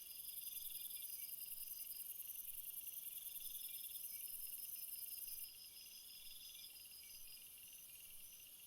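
Crickets and other field insects chirping and trilling at high pitch, several overlapping rhythms: short chirps repeating about twice a second and longer trills every couple of seconds. A very high continuous buzzing trill stops abruptly about five and a half seconds in.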